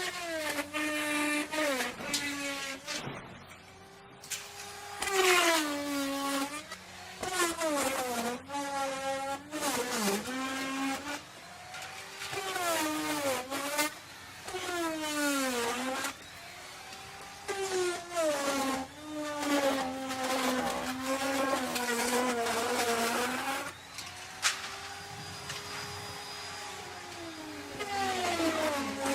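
Electric wood router cutting wood. Its motor whine dips in pitch again and again as the bit bites into the wood, then climbs back as it frees up.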